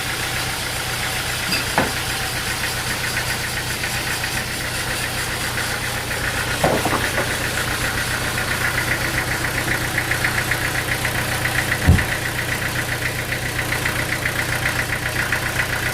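An engine running steadily with a fast, even pulse. Three short knocks stand out, the loudest near the end.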